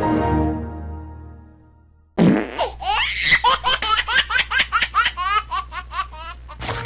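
A child laughing loudly in rapid bursts, several a second, for about four seconds, starting after a musical sting fades away.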